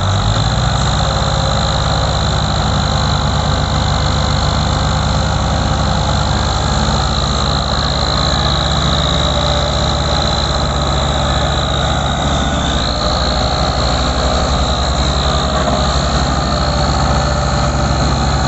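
Diesel tractor engine running hard at steady high revs, straining against an overloaded sugarcane trolley that is stuck in wet ground. A steady high-pitched whine sits above the engine.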